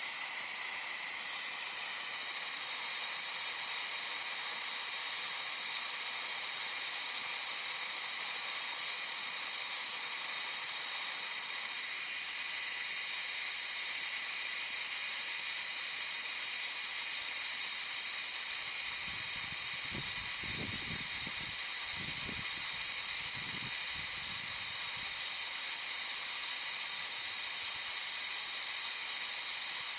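Steady, loud hiss of compressed air leaking back out of a DeWalt D55146 air compressor with the motor off: its check valve is letting tank air back by, so the pressure bleeds down until the compressor kicks on again. A few faint low knocks sound about two-thirds of the way through.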